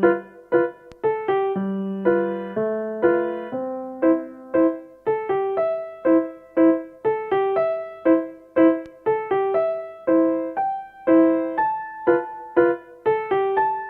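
Background piano music: a light melody of plucky notes, several a second, at a steady tempo.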